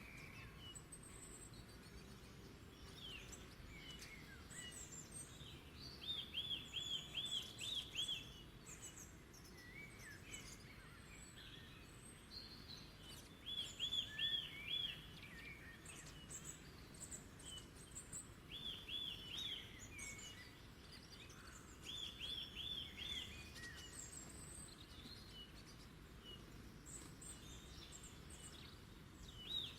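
Wild songbirds singing: one bird repeats a short phrase of four to six quick, clear notes every few seconds, with other birds adding scattered high chirps. A steady low background rumble runs underneath.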